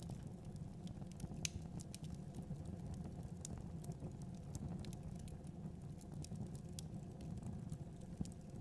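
Fireplace fire crackling: irregular sharp pops and snaps, a few a second, over a steady low rumble of flame.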